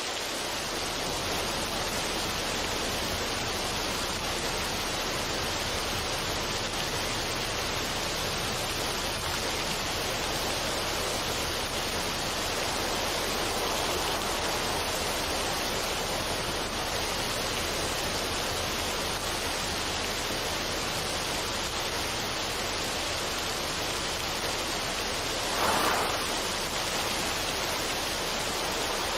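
Steady, even rushing noise of a relaxation ambience track, with one brief swell about 26 seconds in.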